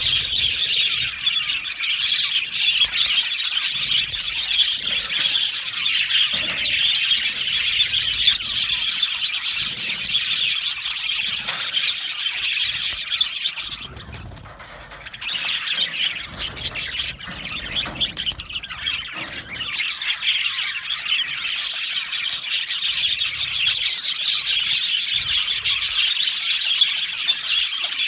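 Many budgerigars chattering and chirping together in a dense, continuous high-pitched warble. The chatter drops off briefly about halfway through, then picks up again.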